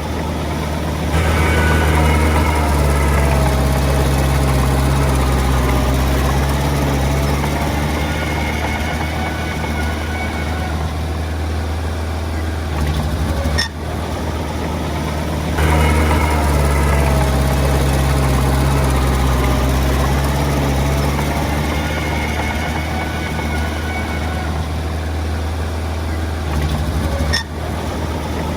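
Small crawler bulldozer's diesel engine running under load, rising about a second in and again about halfway through. Two brief sharp breaks interrupt the steady drone.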